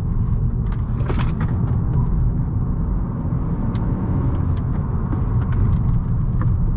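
A 2018 Honda Accord 1.5T being driven hard through tight curves: a steady low rumble of the turbocharged 1.5-litre four-cylinder through its CVT and the tyres on the road, with scattered sharp ticks.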